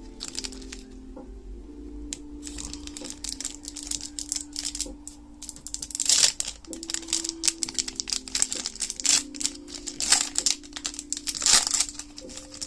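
Foil booster-pack wrapper crinkling and tearing as it is opened by hand, in irregular bursts that are loudest in the second half. Soft background music of held notes underneath.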